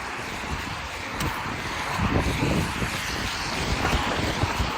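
Wind buffeting the microphone in stormy weather: an uneven rumble under a hissing haze, growing a little louder about two seconds in.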